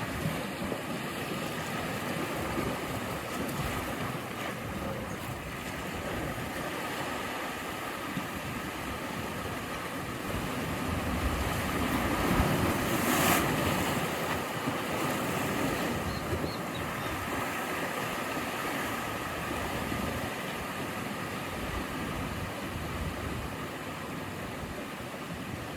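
Sea waves breaking and washing ashore in a steady roar, one wave swelling louder about halfway through. Wind rumbles on the microphone.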